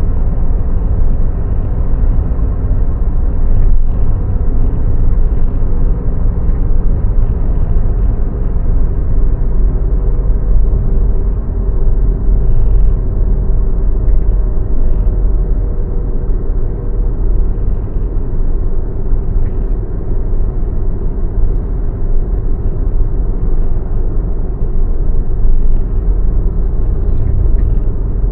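Steady low rumble of a car on the move: engine and road noise with no breaks.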